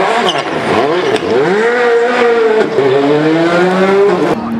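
Rally car engine revving hard, its pitch dropping and climbing several times through quick gear changes and lifts, then cutting off suddenly near the end.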